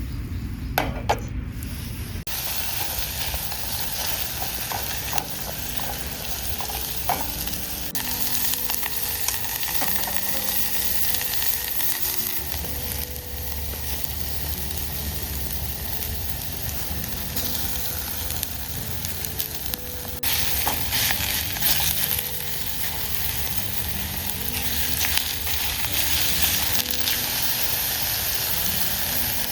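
Food frying in a pan over a campfire: after a couple of knocks, a steady sizzle sets in about two seconds in and carries on.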